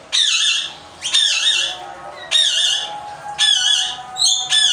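A parrot squawking: about five harsh, wavering calls, each around half a second long, at roughly one a second.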